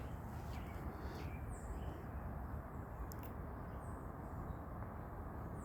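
Steady low rumble of distant traffic, with a few short, high bird chirps over it.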